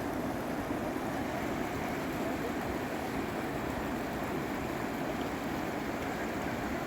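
Floodwater in a swollen mountain river rushing steadily.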